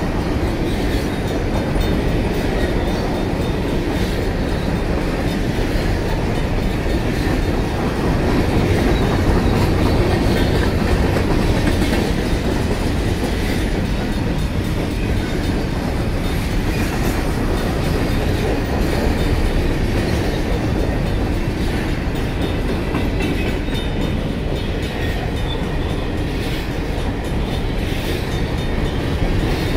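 Covered hopper cars of a freight grain train rolling steadily past a grade crossing, with the crossing's warning bells ringing.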